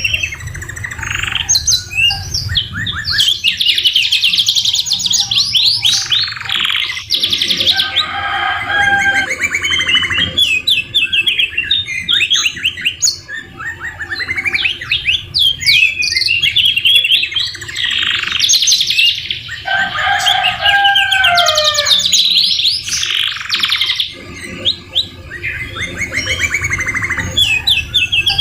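Domestic canary singing a long, unbroken song of rapid trills and rolls, its song carrying phrases copied from the white-rumped shama. Lower whistled phrases come in twice, about eight seconds in and again past the twenty-second mark.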